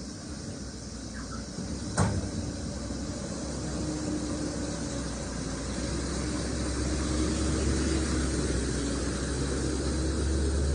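Motor vehicle on the road: a steady noise and a low rumble that slowly grow louder, with one sharp knock about two seconds in.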